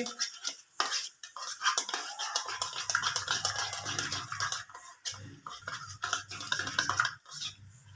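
A spoon scraping and clinking against a bowl while stirring chicken pieces with mayonnaise and ketchup, in quick irregular strokes. A low hum sits underneath for several seconds in the middle.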